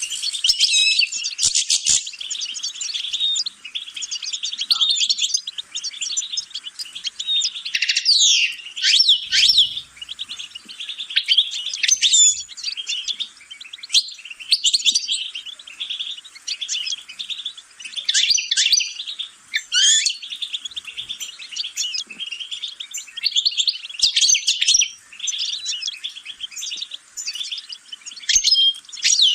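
European goldfinch singing: a long run of fast, twittering song with trills, broken a few times by quick whistled sweeps up and down in pitch.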